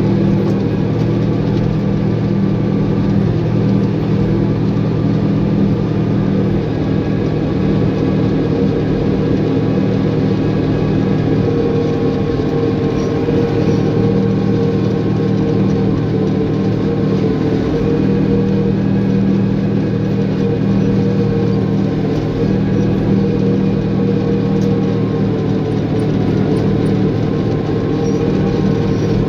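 Caterpillar bulldozer's diesel engine running steadily under work, a deep continuous drone with no pauses.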